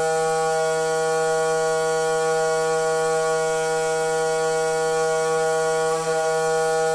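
Noisy water pipe humming: a steady, loud, single-pitched drone with a brief wobble about six seconds in.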